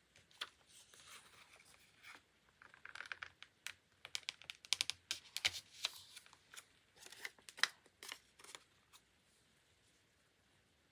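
Paper and stationery being handled on a desk for diary decorating: a run of crisp clicks, crinkles and small tearing sounds in quick clusters, dying away about nine seconds in.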